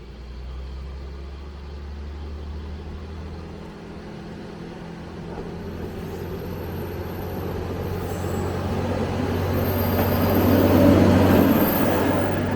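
A single-car diesel railcar approaching and passing, its engine hum and running noise growing steadily louder to a peak about eleven seconds in, with a thin high whine near the peak.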